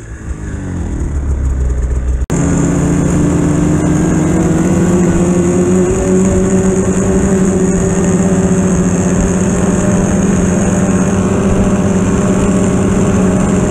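Polaris Pro RMK 800 snowmobile's two-stroke engine. It runs low for about two seconds, breaks off abruptly, then pulls at high, steady revs, its pitch creeping up a little before holding.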